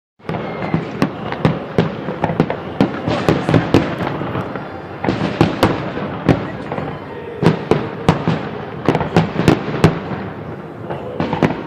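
Fireworks salute: a dense run of sharp bangs, several a second, over a continuous crackling rumble, starting just after the opening moment.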